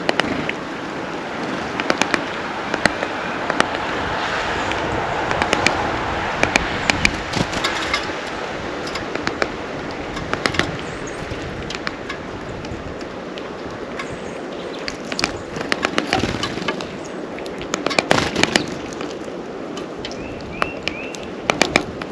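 Sharp taps and clicks, singly and in quick clusters, of birds pecking seed and hopping on a feeder close to the microphone, over steady background noise; a few short chirps near the end.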